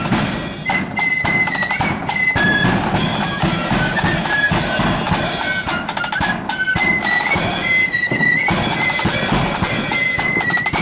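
Marching flute band playing a high, shrill unison melody over rapid snare-drum rolls and a bass drum beat.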